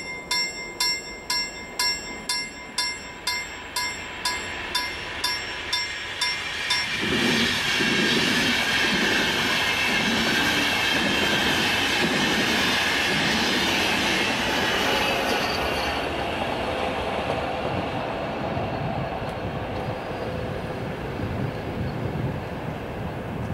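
A level-crossing warning bell strikes about twice a second, its ringing lost under the train noise about six or seven seconds in. A Finnish InterCity train, an Sr2 electric locomotive hauling double-deck coaches, then passes at speed with wheels rumbling and clattering over the rails. Its sound fades gradually over the last several seconds as it moves away.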